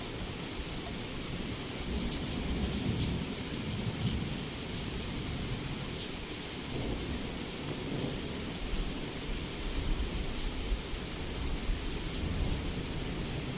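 Heavy rain falling steadily, with low rolling thunder rumbling underneath that swells a few times.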